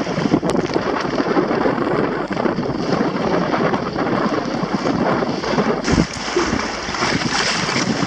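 Strong wind buffeting the microphone on a Hobie Adventure Island sailing kayak out on choppy water, with a steady rush of wind and water and a heavier gust about six seconds in.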